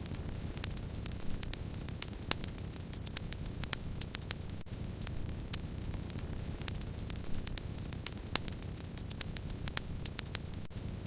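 Wood fire burning with a steady low rumble, with frequent irregular sharp crackles and pops from the burning wood.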